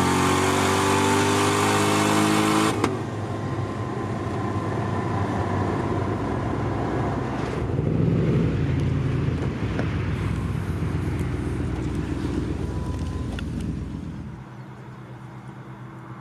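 Car engine at full throttle, its pitch climbing, cutting off sharply about three seconds in as the throttle is lifted. Quieter engine and road noise follows as the car rolls on, dropping off further near the end.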